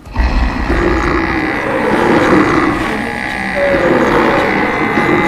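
Stampede sound effect: a continuous low rumble of many running hooves mixed with animal calls.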